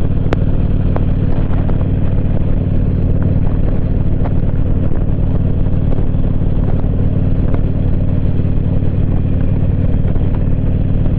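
Motorcycle engine running steadily at highway cruising speed, its pitch holding level, under a constant rush of road noise.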